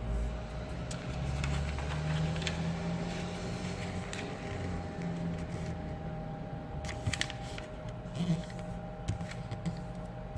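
Paper being handled and creased while folding a paper airplane, with a few short sharp crinkles, over a steady low hum.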